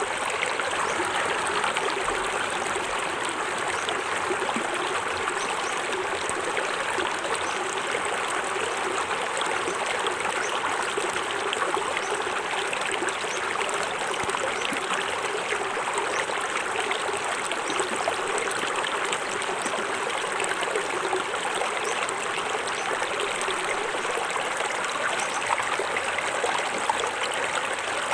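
Small forest waterfall: a steady rush of falling and splashing water that does not change.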